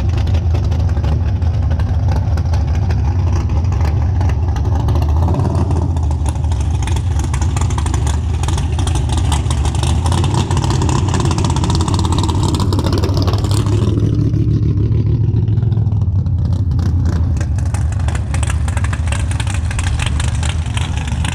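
Drag-racing car engines running near the lanes, a loud, steady low rumble with a shift in engine pitch about two thirds of the way through.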